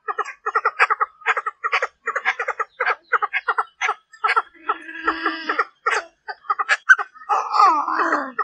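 Female Chinese francolin (đa đa) calling, a lure call meant to draw in males: a fast series of short notes, several a second, with a longer drawn-out note about five seconds in and a harsher, denser call near the end.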